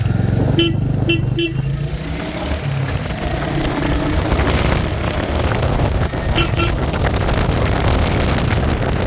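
Royal Enfield Hunter 350's 349 cc single-cylinder engine running under way on the road. Short vehicle horn toots come three times about a second in and twice more near the end.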